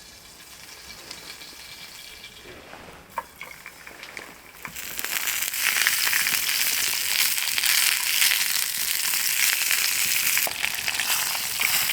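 Food frying in a pan over a campfire: a faint sizzle with a few clicks, which jumps to loud, steady sizzling about five seconds in.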